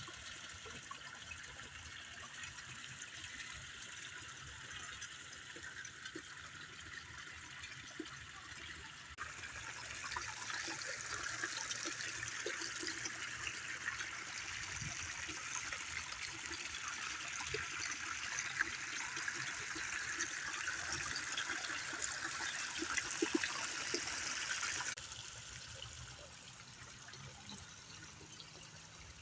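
Running water trickling and splashing steadily. It grows louder suddenly about nine seconds in and drops back suddenly near the end.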